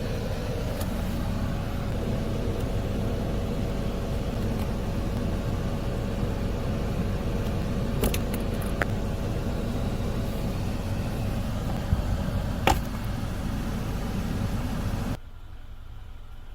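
Failing cabin blower motor of a 2017 Mitsubishi Outlander running: a steady, noisy hum with a faint steady whine and a few clicks, the sound of a bad blower motor. It cuts off suddenly about fifteen seconds in.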